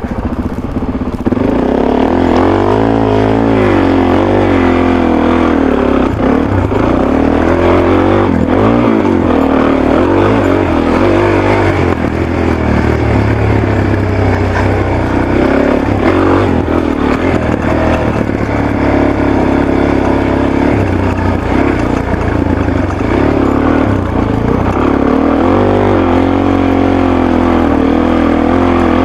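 Motorcycle engine running through a Yoshimura exhaust with its quiet insert fitted, its pitch rising and falling as the rider opens and closes the throttle while riding.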